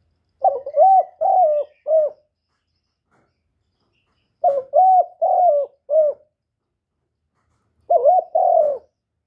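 Male spotted dove cooing loudly: three phrases of three or four deep coo notes each, a few seconds apart, the last phrase shorter.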